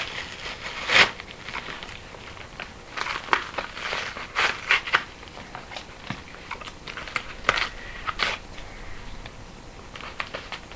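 Paper being peeled and torn off a posted parcel, crinkling and crackling in irregular bursts, loudest about a second in and again in clusters through the middle.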